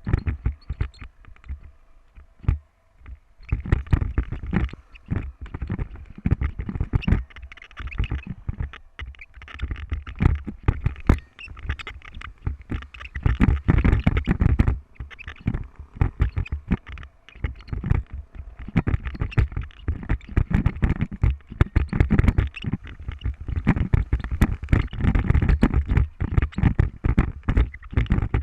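Wind buffeting the microphone in irregular rumbling gusts.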